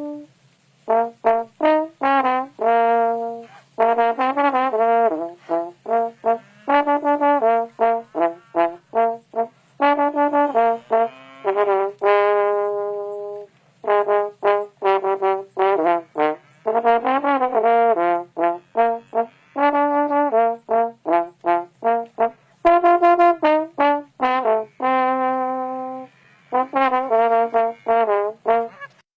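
A brass instrument playing a melody outdoors to call cows, in phrases of short, separate notes with brief pauses between them.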